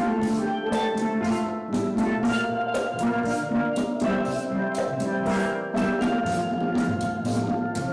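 Steel drum band playing a lively tune, the pans struck in quick, rhythmic notes, with drum and percussion underneath.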